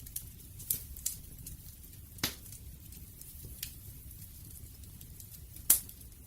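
Wood fire crackling: scattered sharp pops and snaps over a low, steady rumble, the loudest snap near the end.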